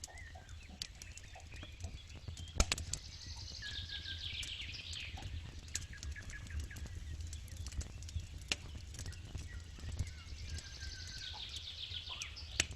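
Campfire crackling with scattered pops, the sharpest about two and a half seconds in, over a low steady rumble. A songbird sings a descending trilled phrase twice, about three seconds in and again near the end.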